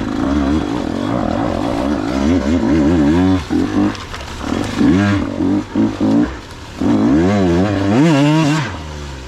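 KTM 125 XC dirt bike's two-stroke engine under way, revving up and down with repeated throttle blips, dropping quieter near the end.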